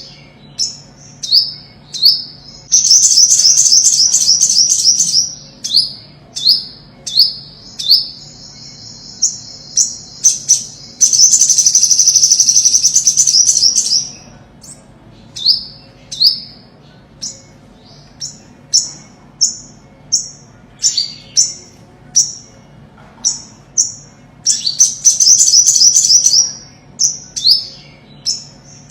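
Olive-backed sunbird singing: a series of short, sharp, high rising chirps, about one or two a second, broken by quick twittering runs and a long buzzy trill that lasts about five seconds near the middle.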